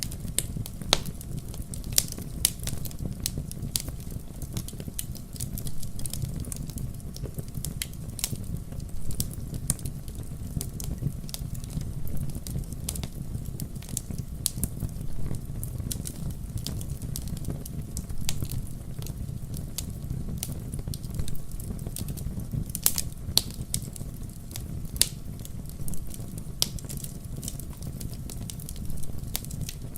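Firewood burning, crackling with irregular sharp pops and snaps over a steady low rumble of the fire.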